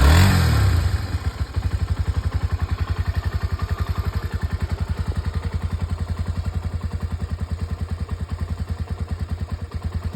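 Honda CBX125's single-cylinder four-stroke engine blipped briefly at the start, dropping back to an even, pulsing idle as it warms up after a cold start.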